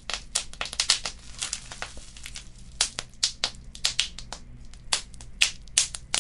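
Wood fire crackling: a rapid, irregular run of sharp pops and snaps over a steady low rumble, with a few louder pops scattered through.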